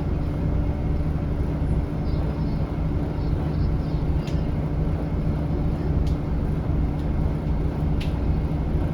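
Scania L94UB bus heard from inside the cabin while under way: a steady engine drone with road noise. A few sharp rattles or clicks come about four, six and eight seconds in.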